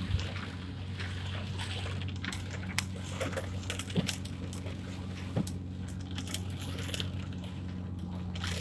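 Heavy rain pelting the car's roof and windshield, heard from inside the cabin as a hiss with many sharp, irregular ticks of drops striking, over the car's steady low hum.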